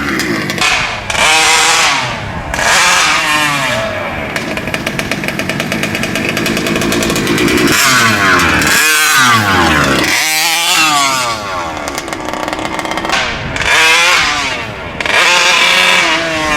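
Gas engine of a large-scale RC monster truck running and being revved up and down over and over, its pitch climbing and falling several times, with a steadier stretch of lower running in between.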